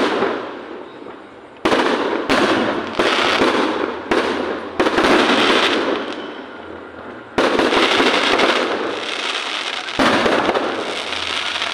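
Aerial firework shells bursting overhead: about seven sharp bangs in the first half and then two more spread out, each trailing off slowly into a fading wash of noise.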